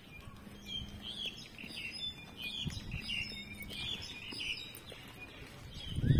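Birds chirping, a series of short high calls a few times a second.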